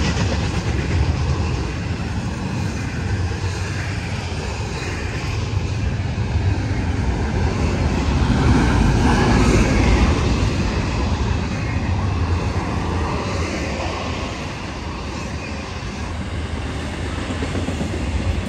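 Intermodal freight train's double-stack container well cars and trailer flatcars rolling past, a steady noise of steel wheels on rail with the low end strongest.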